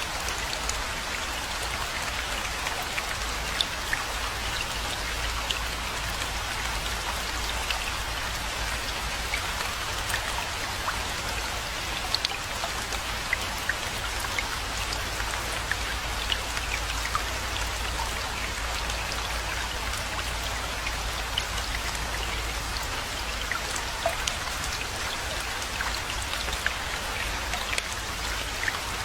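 Steady rainfall, with many separate drops ticking sharply close by over an even hiss, and a steady low rumble underneath.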